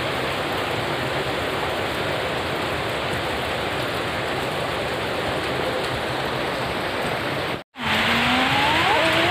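Steady rain falling, an even hiss. Near the end the sound drops out for an instant, then the rain returns louder with a voice over it.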